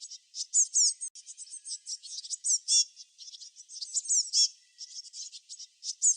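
Songbird chirping: a quick, high phrase of rapid chirps and down-slurred notes, repeated about every two seconds, with scattered chirps between.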